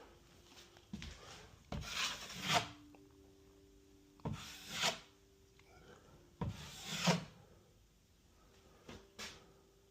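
Drywall being scraped by hand in a few rough rasping strokes, each under a second and spaced a couple of seconds apart, with a faint steady hum beneath.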